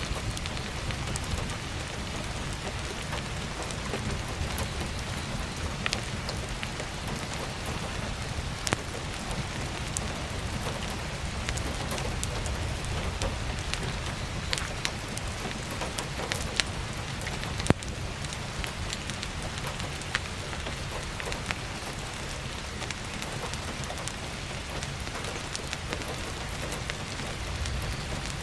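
Steady heavy rain falling on an attic skylight, mixed with a crackling wood-stove fire and a low rumble underneath. Scattered sharp pops stand out, the loudest about 9 and 18 seconds in.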